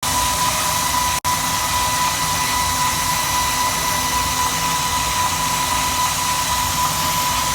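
Stone and concrete cutting machine running, a steady high whine over loud machine noise, with a momentary dropout about a second in.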